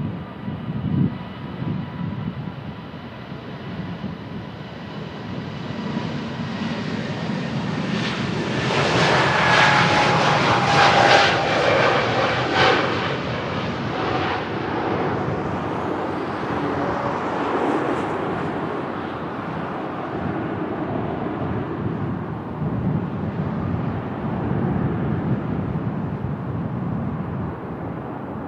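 Airbus A320neo jet airliner departing and passing by. The engine noise swells to its loudest about ten seconds in, with whining tones that slide down in pitch as it goes past, then slowly fades. Wind rumbles on the microphone throughout.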